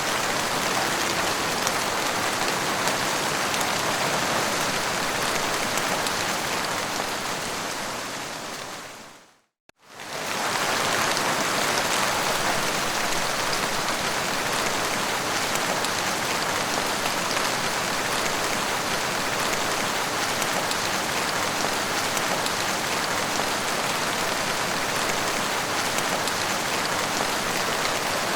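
Steady heavy rain falling, a dense even hiss. About nine seconds in it fades out to near silence and comes straight back at full level, like an edit point in a looped recording.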